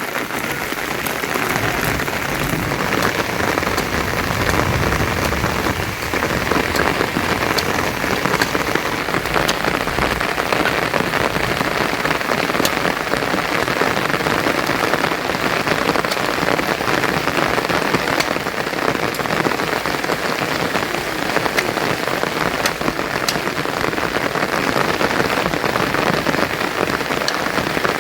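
Steady rain falling on surfaces, with sharp drop hits ticking here and there.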